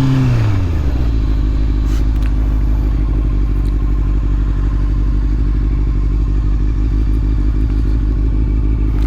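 Motorcycle engine dropping in pitch from a rev during the first second, then idling steadily with a low rumble.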